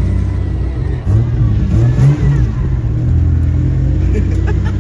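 Car engine revving: the pitch rises and falls about a second in, then holds at a steady higher speed.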